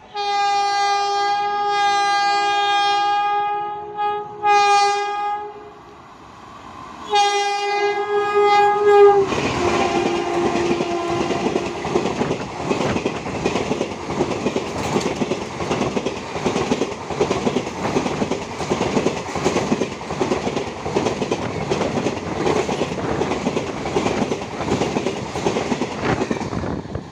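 Electric locomotive horn of an Indian Railways train sounding a long blast, a short one, then another blast, followed by the train passing close at speed, its coach wheels clattering steadily over the rail joints.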